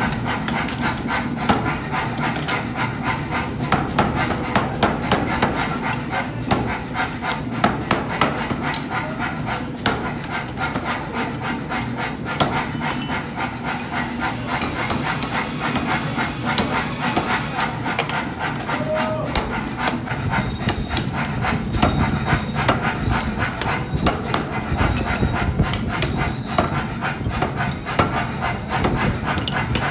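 Metalworking shop noise: a dense, continuous run of rapid, irregular knocks and scraping of metal, with a brief hiss about halfway through.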